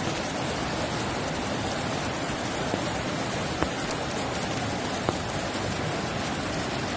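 Hurricane rain and wind: a steady, dense hiss of heavy rain, with a few sharp taps in the middle.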